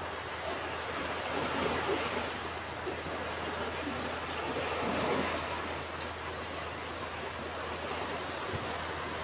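Ocean surf: waves washing onto a beach in a continuous rush, swelling a little about two seconds and five seconds in.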